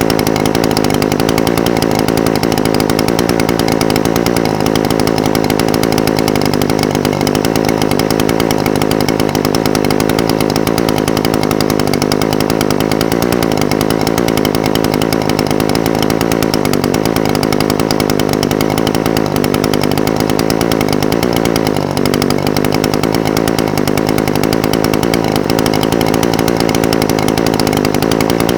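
Echo SRM-420TES brush cutter's two-stroke engine idling steadily, with a brief dip about three-quarters of the way through.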